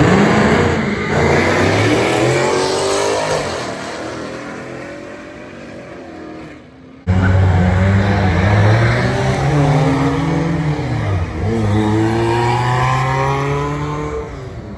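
Car engines revving and accelerating, the pitch climbing as they pull away. An abrupt cut about seven seconds in switches to another engine revving up and down.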